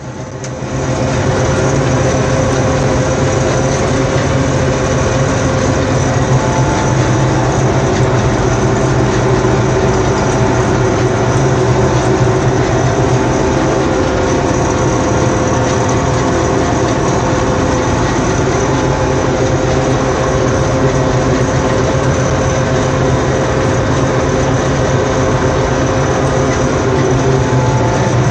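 Deutz-Fahr 35.70 combine harvester running steadily, with a constant low engine hum and a steady mechanical whine above it; the sound fades in over about the first second.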